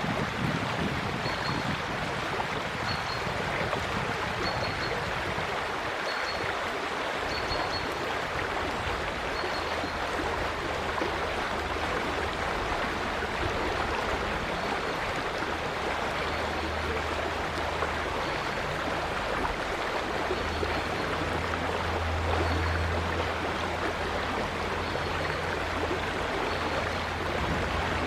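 River water flowing in a steady rushing wash. A faint short high note repeats about every second and a half, and a low hum comes in partway through.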